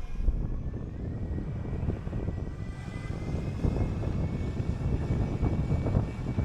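City bus under way: steady engine drone and road rumble, with a faint whine that rises in pitch over the first few seconds as the bus picks up speed.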